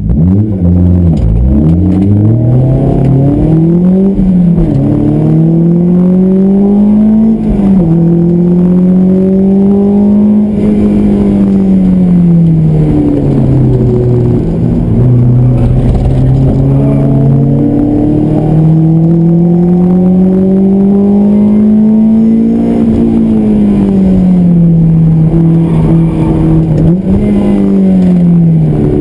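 Honda S2000's four-cylinder engine with an aftermarket exhaust, heard from inside the cabin. It pulls away from near standstill with quick rises in pitch, each cut off by an upshift in the first few seconds. Then it swells and dips with throttle and gear changes through the corners.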